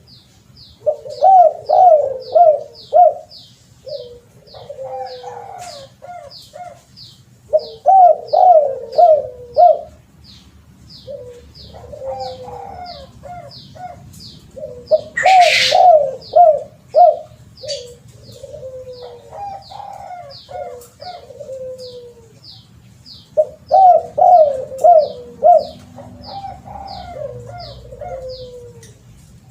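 Spotted dove (terkukur) cooing: loud groups of four or five quick coos come every several seconds, with softer coos between them. Behind them runs a steady series of high chirps, about two a second.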